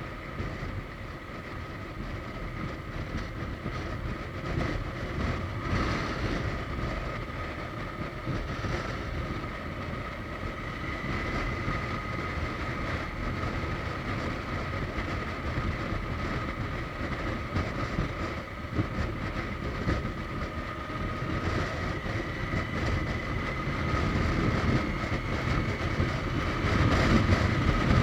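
Suzuki GSX1250FA's inline-four engine and wind noise while riding at speed, a steady rush with a thin whine that rises a little in pitch past the middle and gets louder toward the end.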